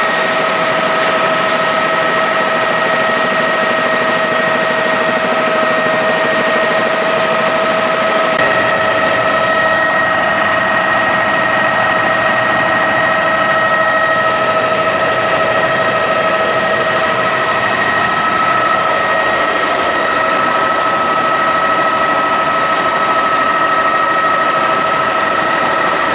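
Helicopter in flight: a steady whine with several tones over a constant rushing noise, unchanging throughout.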